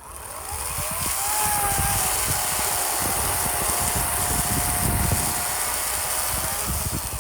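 EGO 56-volt battery chainsaw spinning up with a rising whine over the first second, then running steady with the chain cutting through a log, and slowing near the end.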